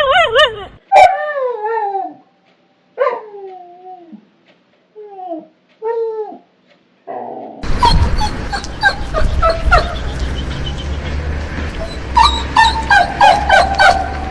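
Dogs whining and crying: drawn-out whines that fall in pitch, with pauses between them. About halfway through, a different recording with a low background rumble begins, full of quick, high whimpers and yips that come thickest near the end.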